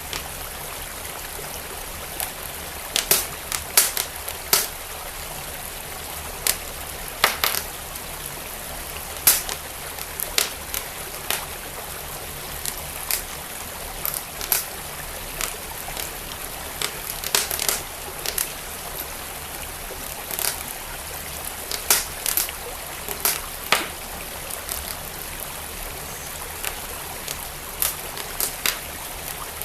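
Fireplace fire crackling with sharp, irregular pops over the steady rush of a flowing stream.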